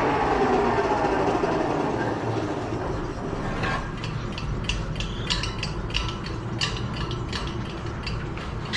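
A power tool's motor winding down, its pitch falling steadily until it dies away about three seconds in. Then come a series of irregular light clicks and knocks of handling work.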